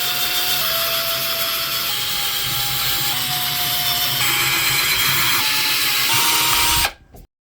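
Electric drill boring holes into a baked polymer clay sculpture, its motor tone shifting up and down in steps as the speed changes, then stopping suddenly near the end.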